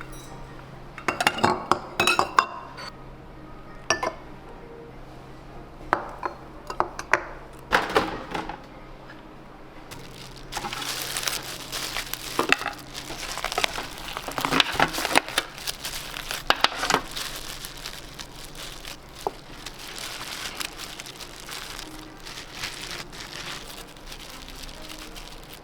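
Kitchen handling sounds: dishes and utensils clinking and knocking, then a long stretch of crinkling and rustling with clicks, over a low steady hum.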